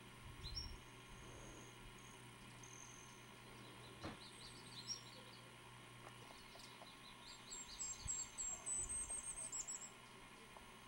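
Faint high-pitched bird chirps in several short, rapid runs, the longest and loudest near the end, with a few dull low thumps.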